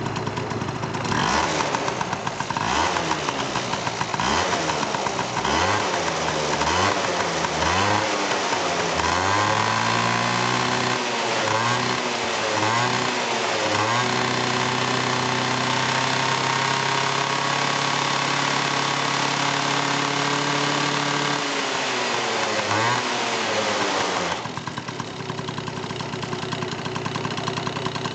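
Yamaha Super Jog ZR scooter's small two-stroke engine being started and run, uneven at first, then revved in repeated blips of the throttle. It holds a steady higher speed for several seconds, drops back with a couple more blips, and then runs on more quietly.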